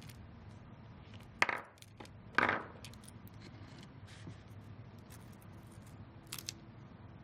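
Small hardware clinking as it is handled during disassembly: two sharp clinks about a second apart, then a couple of fainter clicks near the end.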